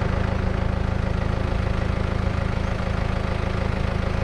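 Vehicle engine idling steadily with an even, rapid pulse.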